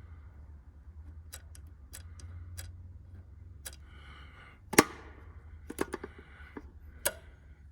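Small sharp plastic clicks from the working door latch on a 1:14 scale RC excavator's cab as the door is opened and closed. About ten irregular clicks, the loudest a little under five seconds in.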